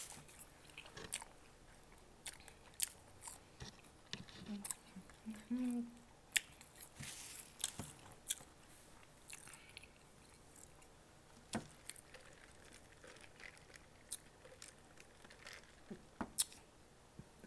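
A person chewing a mouthful of cheeseburger close to the microphone: scattered soft clicks and smacks of the mouth, with quiet gaps between.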